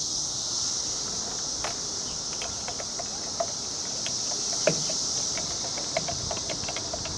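Steady high-pitched chirring of insects such as crickets, with a few light clicks and taps scattered through it.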